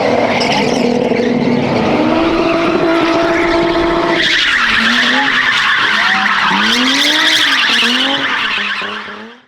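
Spin car's engine held at high revs with its tyres spinning and squealing. About four seconds in the tyre screech gets louder and the revs rise and drop several times, then the sound fades out near the end.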